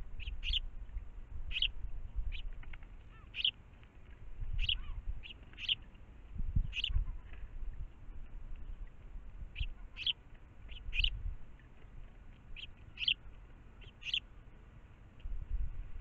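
Small garden birds giving short, high chirps at irregular intervals, some in quick pairs, over uneven bursts of low rumble.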